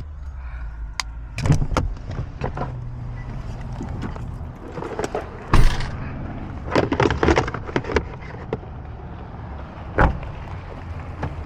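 A low steady rumble of a car, with several sharp knocks and clunks and some rustling over it.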